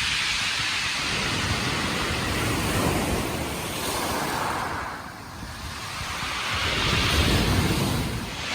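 Strong wind buffeting the microphone over the sound of sea surf. It eases briefly about halfway through, then builds again.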